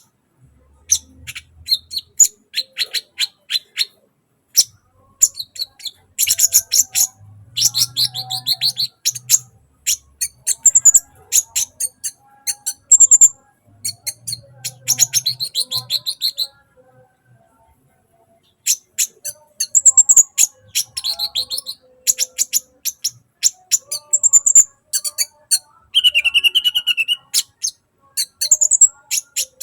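Sunbird singing: rapid runs of thin, high chirps and ticks with short, clear whistles mixed in, breaking off for about two seconds just past the middle.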